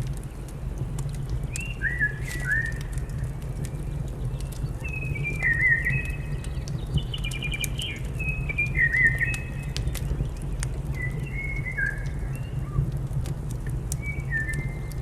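Small birds singing short, repeated whistled and chirping phrases, over the scattered sharp crackles of a wood fire and a steady low rumble.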